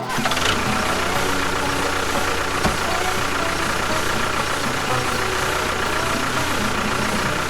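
An engine running steadily at idle, with one brief click about two and a half seconds in.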